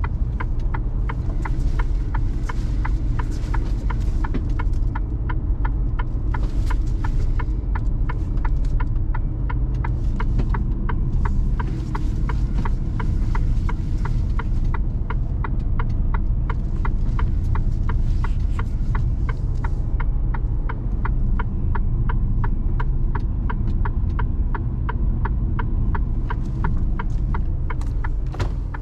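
Mercedes Actros truck's diesel engine running steadily, heard inside the cab, with a regular ticking of about two ticks a second over it.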